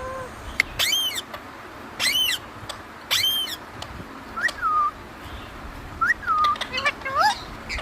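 Pet parrot calling: three loud squawks about a second apart, then two whistled notes that rise and fall, and a quick run of chattering calls near the end.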